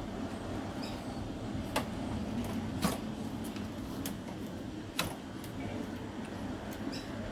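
A few sharp clicks and taps of small carburetor parts being handled, over a steady low hum.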